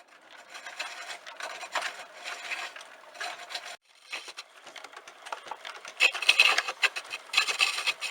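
Homemade wooden treadle lathe in use, giving a rubbing and scraping of wood. The sound drops out abruptly just under four seconds in, then grows louder from about six seconds in.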